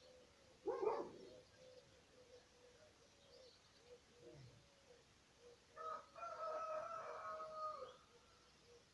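A rooster crowing once, a long pitched call of about two seconds near the end, after a short loud squawk about a second in. Faint small-bird chirps sound in the background.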